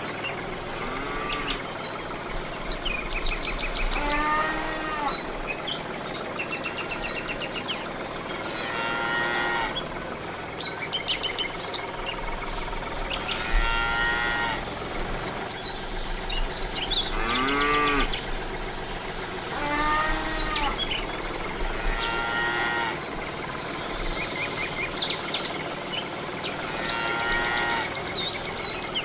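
Cows mooing again and again, about eight calls of roughly a second each, every two to five seconds, over steady insect chirring and scattered bird chirps.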